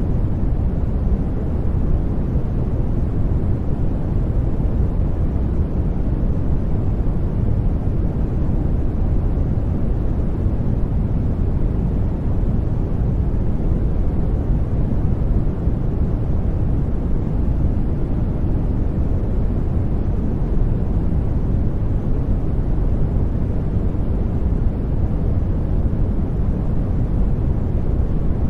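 Continuous noise for studying: a steady, even hiss weighted toward the low end, so it sounds deep and rumbly rather than bright, with no change or events.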